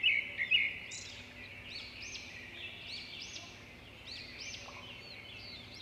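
Birds chirping in the background: many short rising-and-falling calls over a steady high-pitched chorus, a little louder in the first second.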